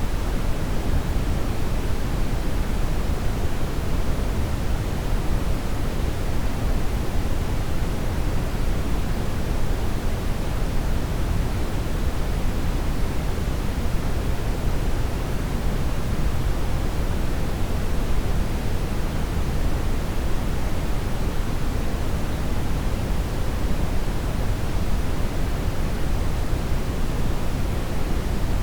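Steady brown noise: an even, deep rushing hiss, heaviest in the bass, unchanging throughout.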